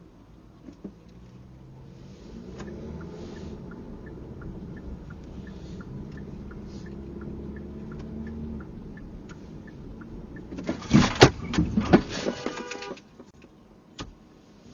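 A motor vehicle engine running steadily with a faint regular ticking, then a loud burst of clattering impacts about eleven seconds in that lasts roughly two seconds.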